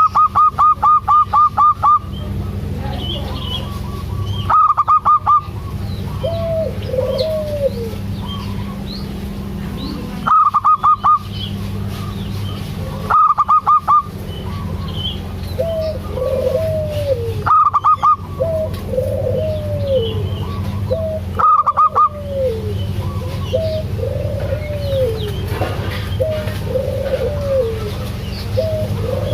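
Zebra dove (perkutut) calling: loud bursts of rapid staccato notes repeated every few seconds, with softer arched coos in between. A steady low hum runs underneath.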